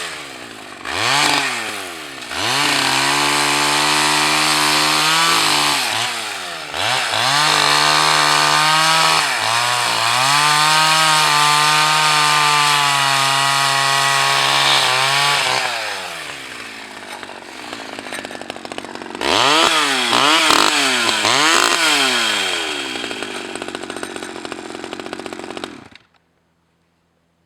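Stihl 011 AV small two-stroke chainsaw revving in short throttle blips, then held at high revs through long cuts into branches with brief dips in pitch, dropping back, revving again, and cutting out suddenly near the end. Its chain is dull, which the owner blames for the slow cutting.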